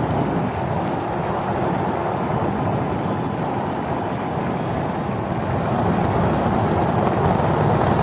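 SpaceX Starship's Super Heavy booster, with its 33 Raptor rocket engines, firing at liftoff: a steady, deep rumble.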